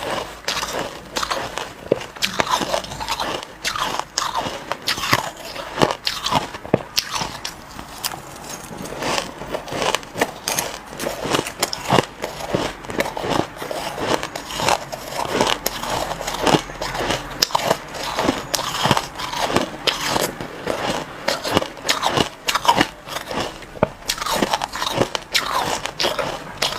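Crushed ice being bitten and chewed, a rapid, irregular run of sharp crunches.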